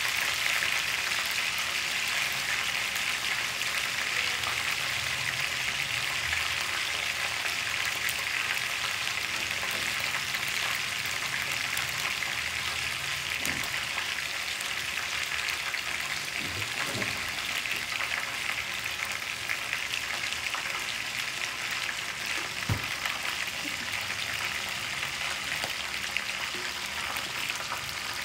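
Chicken wings pan-frying in oil in a wok, a steady sizzle with occasional small pops as the wings are pre-cooked.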